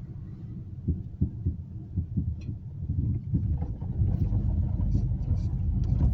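Low rumble of a car on the move, heard from inside the cabin, growing louder a few seconds in, with scattered small knocks and rattles.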